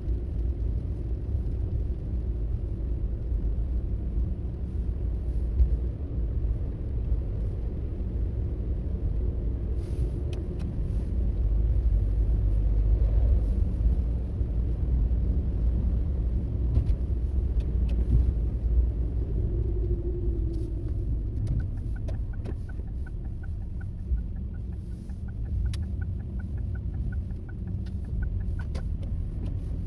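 Car driving along a road, a steady low rumble of engine and road noise. In the second half a regular light ticking, about three a second, runs for several seconds.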